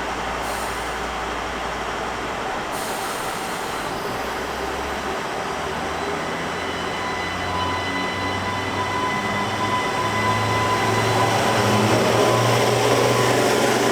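A train running, growing gradually louder, with a low engine drone that rises in pitch partway through and a thin steady whine above it.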